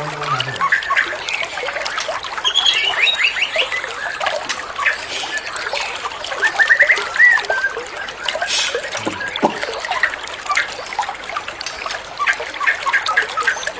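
White-rumped shama singing: varied chirps, clicks and quick runs of rising whistled notes, over a steady trickle of running water.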